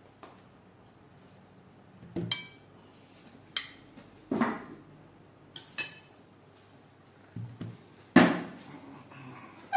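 Cutlery and dishes clinking and knocking in irregular single strikes, some ringing briefly; the loudest comes about eight seconds in.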